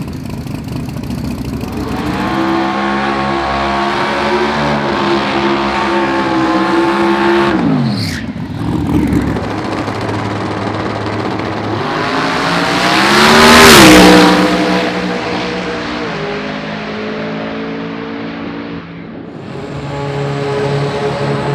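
Drag racing car engines at high revs: one holds a steady pitch, then drops away, and about two-thirds of the way through another revs up to a loud peak and falls back, with engines running steadily around it.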